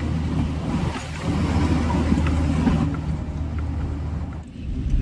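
Kalka–Shimla rail motor car's engine running, a steady low hum with a rumbling noise over it.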